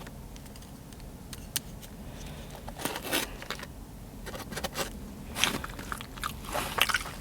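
A person chewing sushi close to the microphone, with wet mouth sounds and scattered short crisp crunches and clicks.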